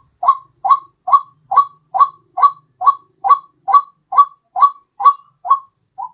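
White-breasted waterhen (ruak-ruak) calling: a steady run of short, identical calls, about two a second, the last one weaker just before they stop near the end.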